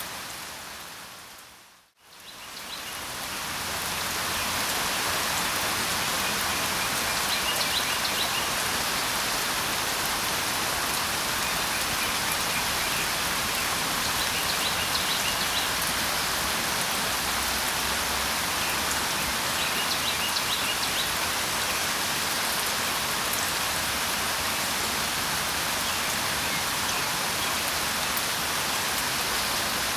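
Steady rain falling, an even hiss, with short faint bird calls coming every six or seven seconds. About two seconds in the rain fades out to silence and swells back up within a couple of seconds.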